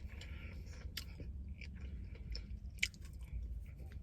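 Close-up chewing of chicken nuggets: soft wet mouth sounds and small clicks, with a sharper click near three seconds in.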